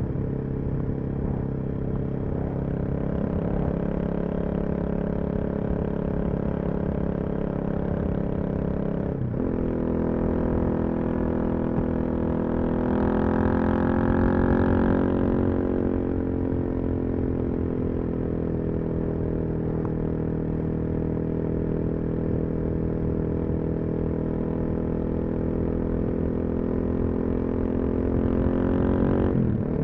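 Suzuki DR-Z400SM single-cylinder four-stroke engine running through a full Yoshimura exhaust at a steady cruise. The revs drop suddenly about nine seconds in and again near the end. It swells louder for a few seconds in the middle.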